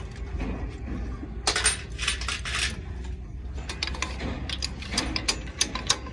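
Light metal clinks and taps of hand tools and engine parts being handled, with a short rough rasping stretch between about one and a half and three seconds in.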